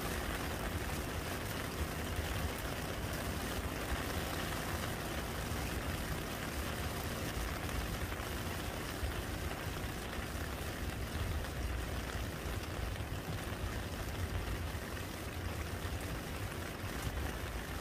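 Steady rain falling and splashing into a muddy puddle, an even hiss of drops with a low rumble underneath.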